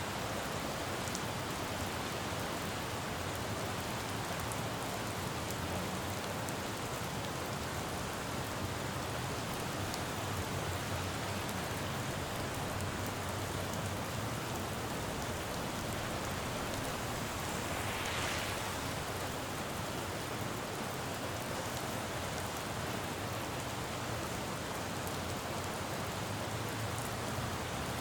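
Steady rain falling on a city road, with a low hum of traffic beneath it. About eighteen seconds in, a brief hiss swells and fades.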